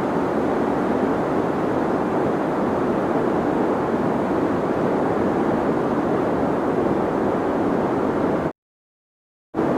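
Steady deep white noise: a dense, even rushing noise weighted to the low-middle range with little treble. About a second before the end it cuts out to complete silence for about a second, then comes back at the same level.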